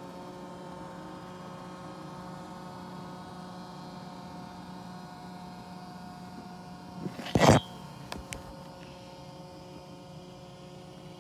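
Roomba j7+ robot vacuum running: a steady motor hum with several steady tones. A single short, loud knock comes about seven seconds in.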